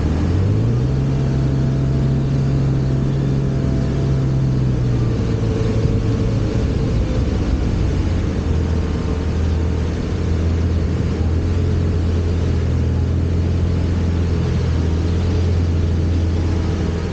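Car engine running steadily. Its pitch rises about half a second in, holds for a few seconds, and settles back down around five seconds in.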